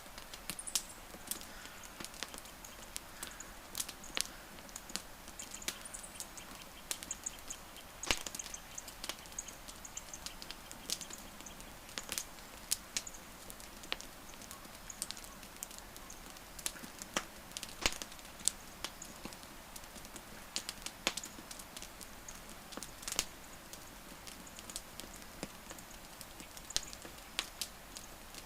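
Wood fire crackling: irregular sharp pops and snaps, a few louder than the rest, over a low steady hiss.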